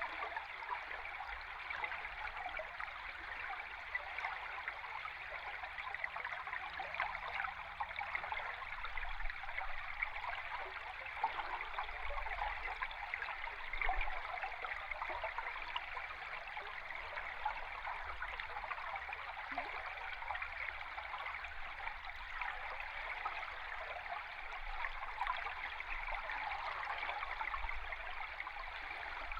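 A river stream recorded underwater: a steady, even rush of flowing water with a faint low rumble beneath.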